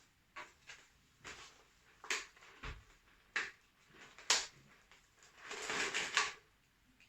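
Pen drawing measurement marks on the side of a plastic bottle: a series of short, scratchy strokes at irregular intervals, one longer stroke near the end, and a low knock about two and a half seconds in.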